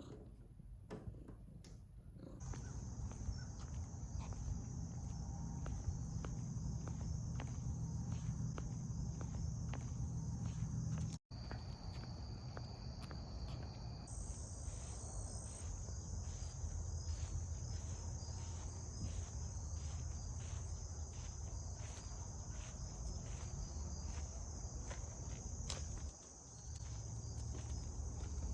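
Insects chirring in a steady high-pitched drone over a low rumble, with soft crunching steps through grass.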